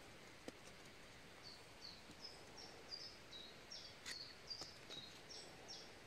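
A small songbird singing a steady series of short, high chirping notes, about three a second, starting a second and a half in. A few faint clicks come from a knife trimming a bolete's stem.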